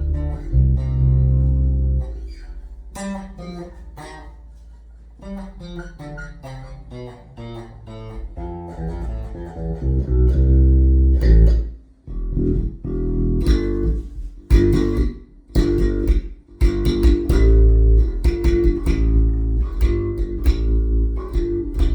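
Custom American Deluxe Precision Bass played through a Markbass Little Mark Tube amp, with both pickups on and the mids back in. It opens with a few heavy low notes, plays a softer melodic line, then from about halfway through gets louder with quick, choppy rhythmic notes.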